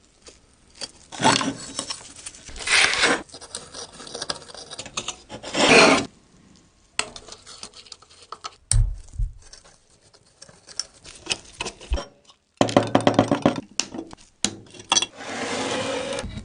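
Repair work on a lantern: scraping, rubbing and clicking in uneven bursts, with short pauses between them.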